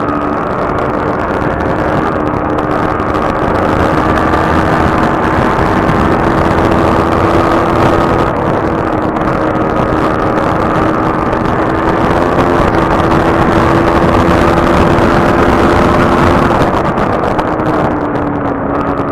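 Motorcycle engine running at a steady cruising speed, its note holding even under heavy wind rush on the microphone, then easing down a little near the end.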